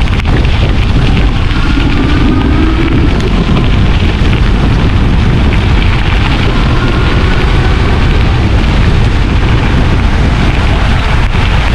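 Wind buffeting the GoPro's microphone on a moving e-bike, a loud steady rumble, with a faint rising whine twice.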